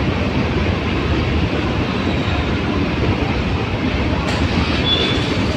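Train running with a steady, loud rumble.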